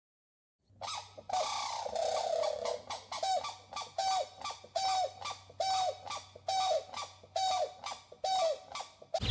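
Grey crowned crane giving a run of short, evenly spaced honking calls, about three every two seconds, starting about a second in.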